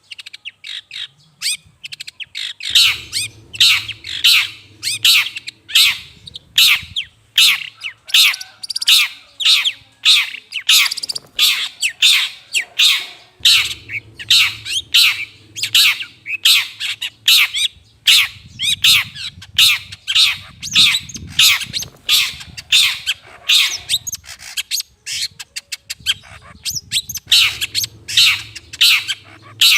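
Long-tailed shrike (cendet) giving harsh, scratchy calls over and over, about two a second. It is played as a lure call for catching the bird.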